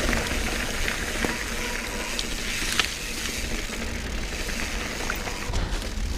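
Mountain bike rolling over a dirt trail: tyre noise on dirt with scattered clicks and rattles from the bike, and wind rumbling on the action camera's microphone.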